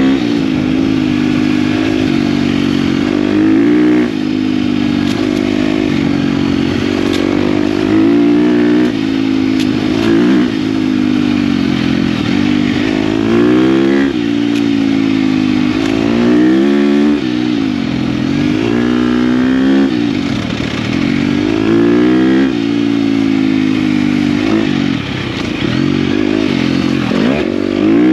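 KTM dirt bike engine running under load while riding, its revs rising and falling over and over as the throttle is worked.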